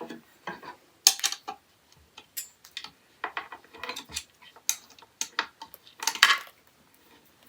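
Rack parts and screws clicking, clinking and knocking irregularly as a flat-pack storage rack is put together by hand, with the sharpest knocks about a second in and around six seconds in.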